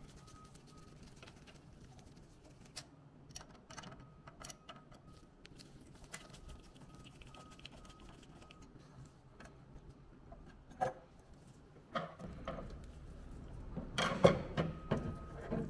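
Small scattered clicks and taps of a Phillips screwdriver working the screws of a UV-Vis spectrophotometer's tungsten lamp module. Near the end comes a louder run of clicking and rattling as the metal lamp module is lifted out of its housing.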